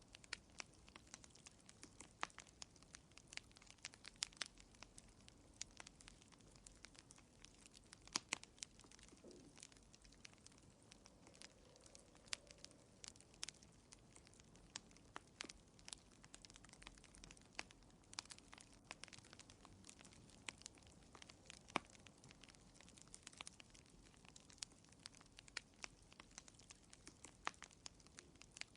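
Wood fire burning in a fireplace, crackling softly with irregular sharp pops and snaps several times a second over a faint low hiss.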